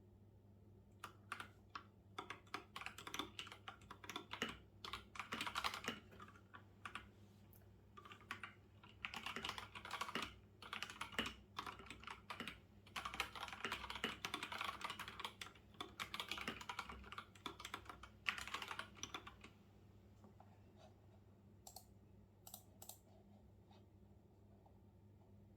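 Typing on a computer keyboard: quick runs of key clicks in bursts with short pauses, thinning out to a few scattered clicks near the end. A faint steady low hum sits underneath.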